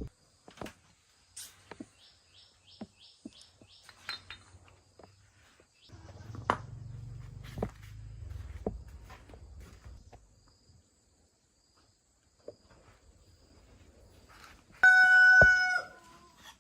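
A rooster crows once, loudly, for about a second near the end. Before it, scattered light clicks and knocks.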